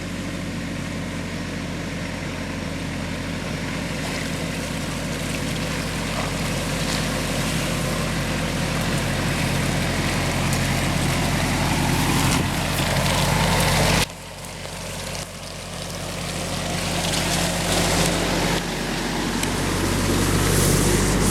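Off-road SUV engine running steadily and growing louder over several seconds. About two-thirds of the way through the sound drops off abruptly, then builds up again.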